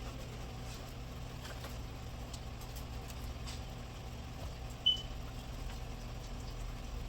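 Faint clicks and knocks of a car radiator being worked loose and lifted out of the engine bay, over a steady low hum, with one short high chirp about five seconds in.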